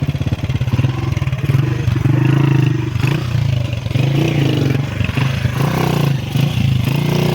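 Honda CG125's single-cylinder four-stroke engine running, its note shifting slightly up and down in pitch and loudness.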